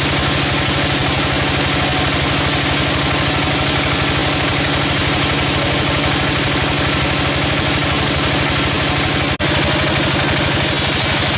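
An engine running steadily with a fast, even beat, cut off for an instant about nine seconds in.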